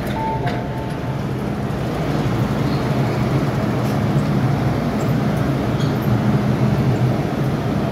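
MTR M-Train electric multiple unit running on the Island Line, heard on board: a steady drone of traction motors and wheels on rail with a low hum, slowly getting louder. A short two-note electronic beep ends about half a second in.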